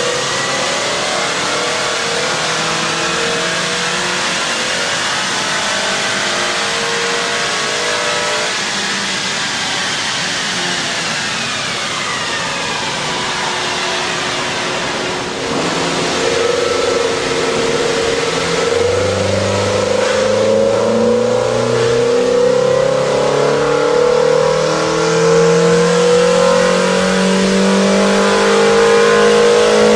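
Scion tC's 2.4-litre four-cylinder engine, fitted with a Takeda cold air intake, running under acceleration. Its pitch falls once, then climbs steadily and gets louder through the second half.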